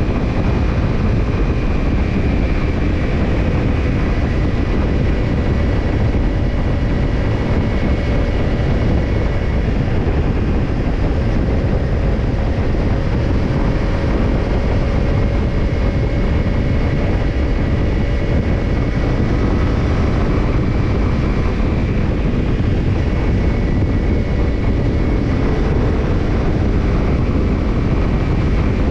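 Kawasaki Ninja 250 parallel-twin running through a BEET NASSERT Evolution Type II titanium slip-on muffler, holding a steady cruise with the engine note wavering only slightly, under dense road and wind rush.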